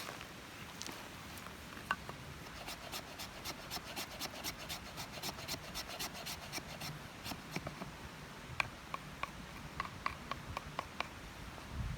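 A hand tool scraping wood in a run of quick, even strokes, about three a second, followed by a few sharper clicks near the end.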